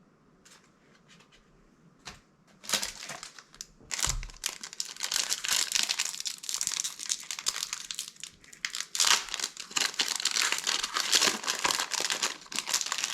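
Crinkling of a Magic: The Gathering booster pack's foil wrapper as it is torn open and handled. It starts about two and a half seconds in and then runs on as a dense, continuous crackle, with a single thump about four seconds in.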